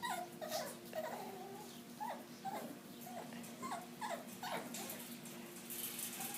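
Labradoodle puppies whimpering: a string of short, high whines, one after another.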